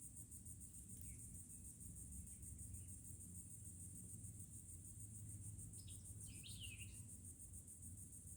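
Insects, likely crickets, trilling steadily in a high, fast-pulsing chorus in the woods. A bird gives a few brief chirps about six seconds in.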